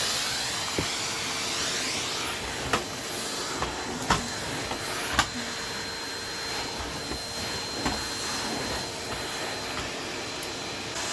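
Vacuum cleaner running steadily, a continuous rushing noise with a faint steady whine, broken by a few sharp clicks every second or two.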